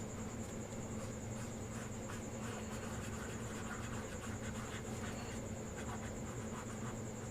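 Faint scratching strokes of drawing on paper, short and irregular, over a steady low hum and a constant high-pitched whine.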